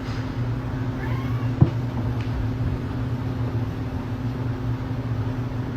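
A steady low hum, with a faint cat meow about a second in and a single sharp click shortly after.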